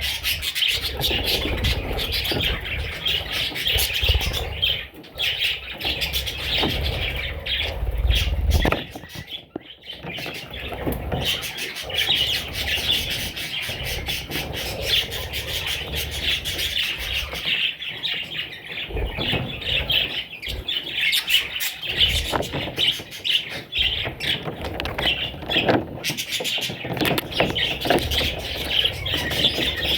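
Budgerigars chattering and chirping without a break, many calls overlapping. A low rumble runs under them for roughly the first nine seconds.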